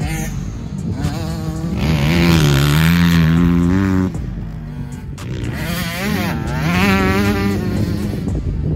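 Dirt bike engine revving, its pitch rising and falling, held up for about two seconds in the middle before dropping back.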